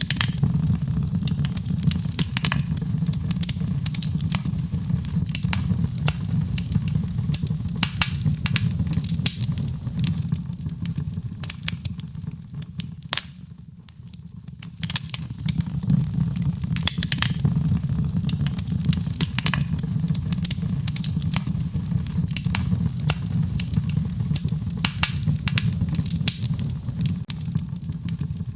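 Wood fire in a fireplace crackling, with frequent sharp pops at irregular intervals over a steady low rumble. The sound dips briefly about halfway through, then comes back.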